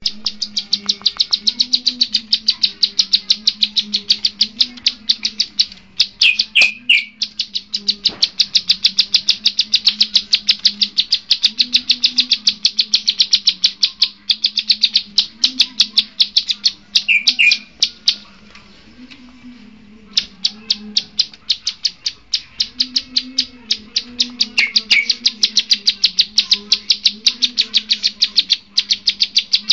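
Cage songbird singing a long run of rapid, evenly repeated high chirps, with a short break about eighteen seconds in before the chirping resumes.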